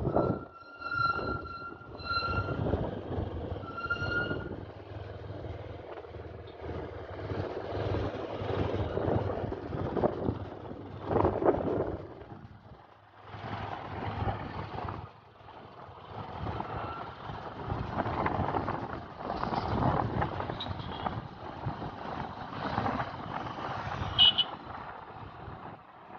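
Road traffic noise with a vehicle horn tooting about four times in the first few seconds, then uneven rushing road noise that swells and fades, with a short sharp sound near the end.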